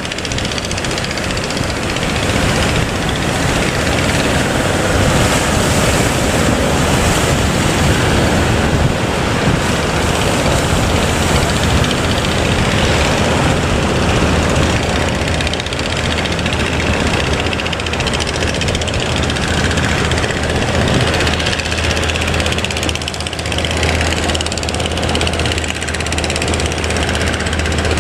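Fishing boat engine running steadily, its low hum growing stronger about halfway through, over a constant rush of surf and wind noise.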